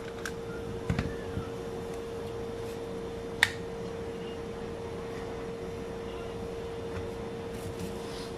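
A few sharp clicks and small knocks, the loudest about three and a half seconds in, over a steady faint hum with one fixed tone.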